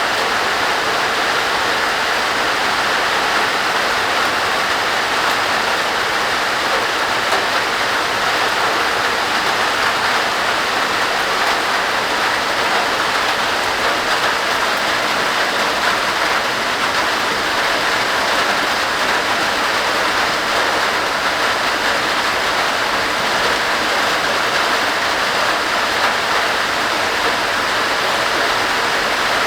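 Heavy rain falling on a tin roof: a steady, dense hiss with no breaks.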